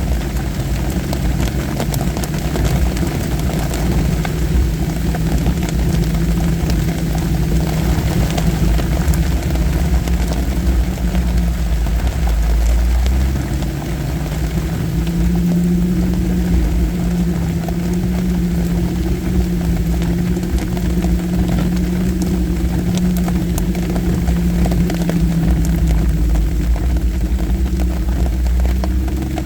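Vehicle engine running steadily at low speed, heard from inside the cabin while crawling an off-road trail. Its drone steps up in pitch about halfway through and settles back down near the end, with scattered light ticks and rattles over a low rumble.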